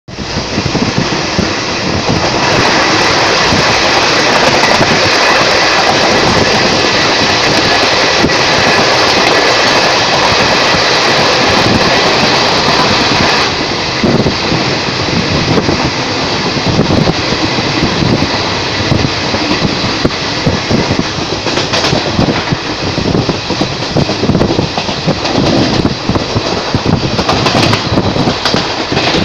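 Passenger train running at speed, heard from an open coach window: rushing wind and wheels on the rails. A dense, steady rush fills the first half, then about halfway it turns into a rougher, uneven clatter of wheels over the track.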